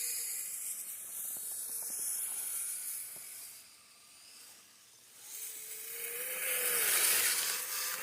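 Hiss and a faint whine from a radio-controlled vehicle's electric drive running in snow. It fades away about four seconds in, then builds again as the vehicle comes back near the end, with a few small ticks early on.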